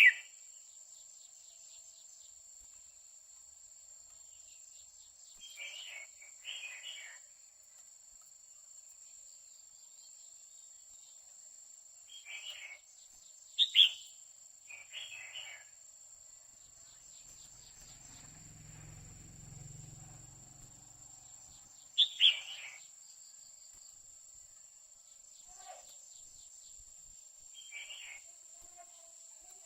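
Female red-whiskered bulbul calling in short bouts a few seconds apart, a few loud sharp notes among softer ones, the calling a female uses to stir up males. A steady high insect drone runs behind.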